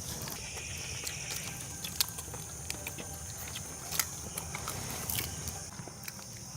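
Quiet outdoor background with a steady high-pitched hiss, broken by scattered small clicks and taps, three of them louder, about 2, 4 and 5 seconds in.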